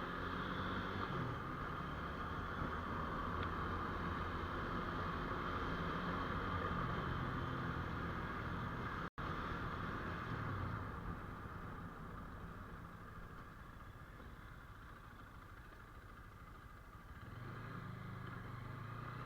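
GPX GR200R motorcycle's 200 cc single-cylinder engine pulling the bike along, with wind and tyre noise. The engine eases off a little past halfway, then picks up again near the end.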